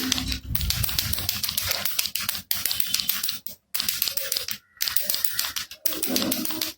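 A baby rattle shaken in quick bursts, its loose beads clattering rapidly, with a few brief pauses between bursts.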